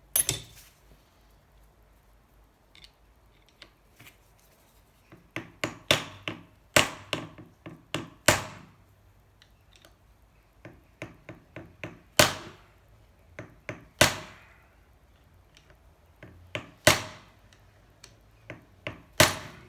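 Hammer blows on a seized Honda C70 engine, struck to drive the stuck cylinder and piston free: sharp knocks, a quick run of strikes from about five to eight seconds in, then single heavy blows every two or three seconds with lighter taps between.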